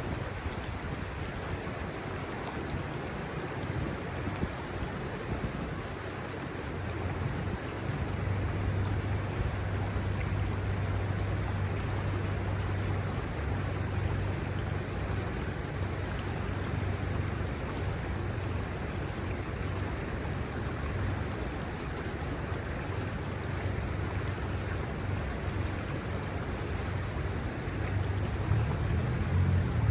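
Shallow river water running steadily over a stony bed. A low rumble of road traffic comes in under it from time to time and grows near the end.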